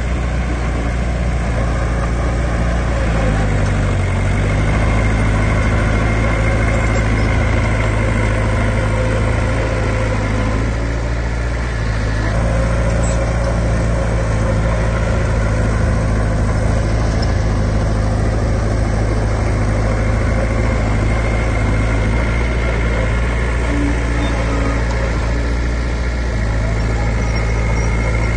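Heavy diesel engine of earthmoving equipment running steadily, its pitch dipping and recovering a few seconds in and shifting slightly again mid-way and near the end.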